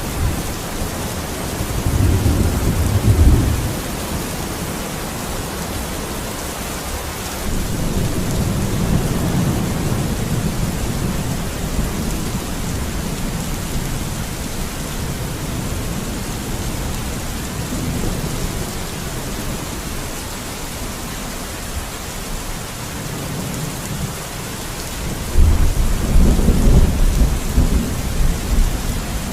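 Steady heavy rain with rolling thunder: low rumbles a couple of seconds in and again several seconds later, and a louder rumble building near the end.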